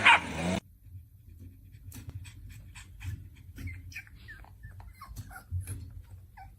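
A dog whimpering in short, high whines and squeaks that come in quick, irregular succession. A loud sound cuts off under a second in.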